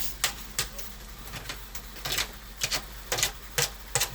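Footsteps crunching in snow: short, irregular crunches about three times a second.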